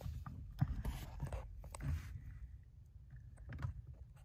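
Faint scattered clicks and scrapes of hands and a phone being moved about in the cramped space under a car's dashboard, busiest in the first two seconds.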